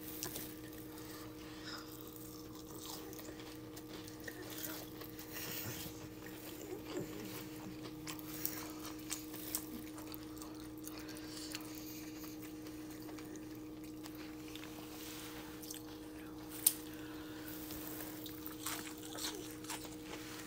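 Quiet chewing of soft homemade fried onion rings: faint wet mouth sounds and small clicks, with one sharp click about three-quarters of the way through, over a steady low hum.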